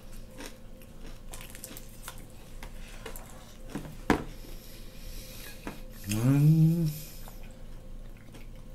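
People chewing and biting food, with scattered light clicks of cutlery and dishes and one sharper click about four seconds in. A little past six seconds someone lets out a short hum, rising then falling, for about a second; it is the loudest sound.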